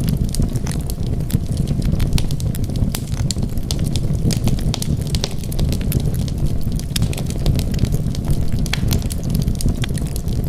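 Wood fire burning in a fireplace: a steady low rumble of flames with many small, sharp crackles and pops.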